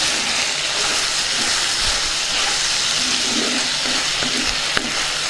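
Chicken pieces with onions, chillies and spices sizzling steadily in hot oil in a clay pot while a spatula stirs them, with a single light tap near the end.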